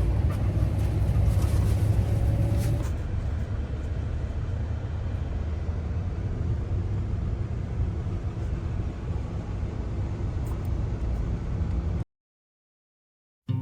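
Car driving: a steady low rumble of engine and road noise. It cuts off abruptly to silence about twelve seconds in.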